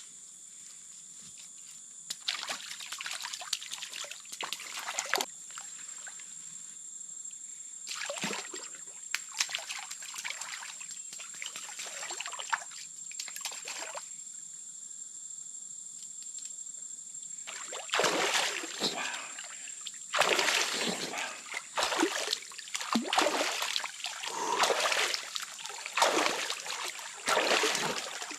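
Water splashing and trickling in irregular bursts, coming thicker in the last ten seconds, over a steady high insect whine.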